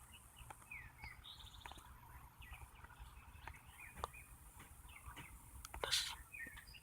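Faint bird chirps and short calls, with a brief buzzy trill early on, scattered through. A few sharp clicks, the loudest about six seconds in.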